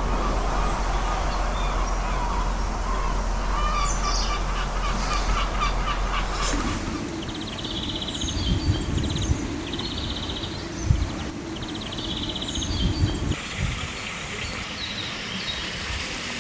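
Small birds chirping and calling over a steady outdoor rush, with a rapid high trill repeated several times in the middle. The background changes abruptly twice.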